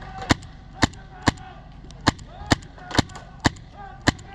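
Paintball marker firing a string of single shots, eight sharp pops a little under half a second apart, with a short gap midway.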